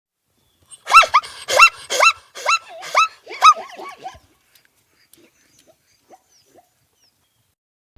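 Small dog barking, a quick run of about seven high, yelping barks lasting a few seconds.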